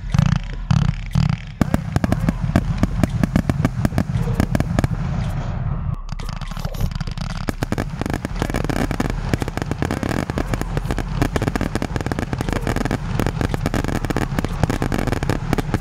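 Consumer fireworks battery (cake) going off, a dense run of rapid sharp cracks and pops that thickens about six seconds in.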